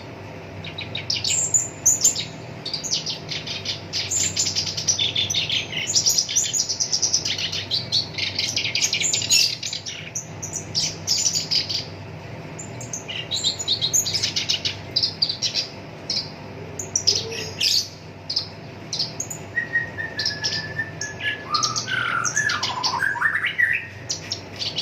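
Black-browed reed warbler singing a rough, chattering song of rapid, dense note runs and trills, with a few lower whistled glides near the end.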